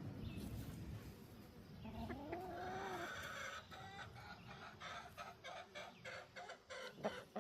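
Chickens clucking: one drawn-out rising call about two seconds in, then a rapid run of short clucks.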